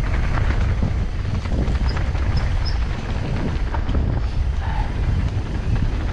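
Wind buffeting the camera microphone on a fast mountain-bike descent, a steady low rumble with small rattles and knocks from the bike going over rough ground.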